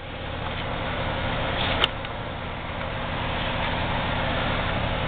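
Milwaukee 4208-1 magnetic drill press motor running steadily, spinning up over the first second, with a sharp click about two seconds in. The drive has a gear problem that the owner suspects is a defective gearbox.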